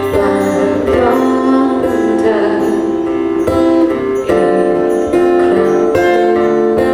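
Live band music led by guitar, playing chords that change every second or so, with no clear singing.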